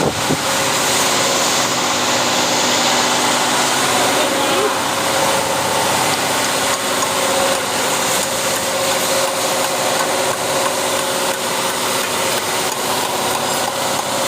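Electric motor running steadily, an even hum with a clear steady tone.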